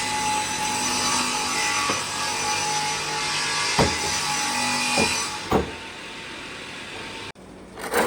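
An electric power tool running as it works wood, with a few sharp knocks of wood. It drops away about five and a half seconds in.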